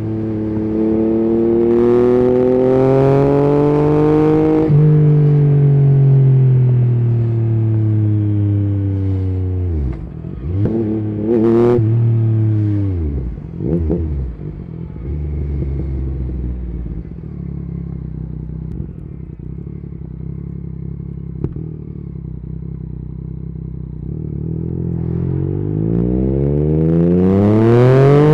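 Yamaha MT-09's three-cylinder engine through an Akrapovic carbon exhaust with the dB killer removed, under way. It revs up and shifts about five seconds in, then slows with a couple of quick throttle blips on downshifts midway. It runs low and steady for a while, then revs up again near the end.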